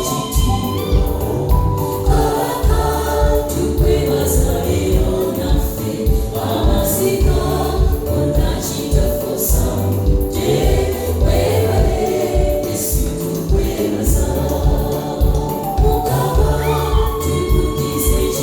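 Gospel choir singing together in harmony over a steady bass beat.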